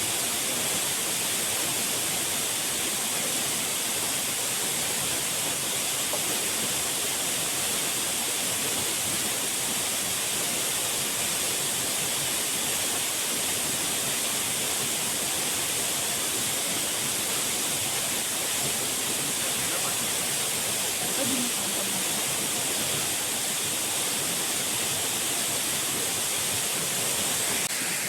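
Steady, unbroken rush of falling water at a constant level.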